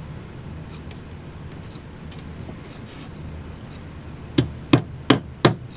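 Hammer striking a small nail four times in quick succession near the end, about three taps a second, over a low steady background hum.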